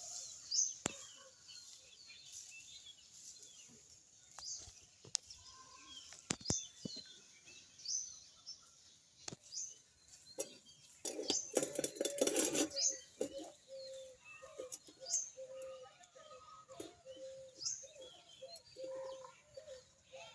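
Birds chirping: short high chirps repeating about once a second, with scattered clicks and a louder rustling burst about eleven seconds in.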